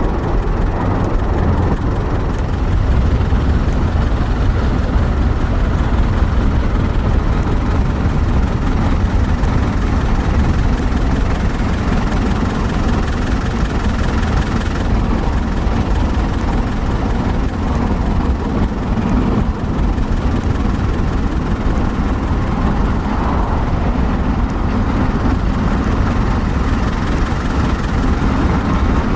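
Steady, loud low rumble of moving vehicles, with no clear rhythm.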